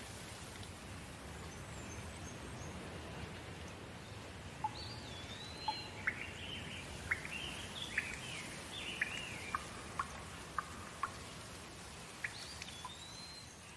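Steady rain, with birds calling over it from about four seconds in: arching whistled notes and a run of short sharp chirps.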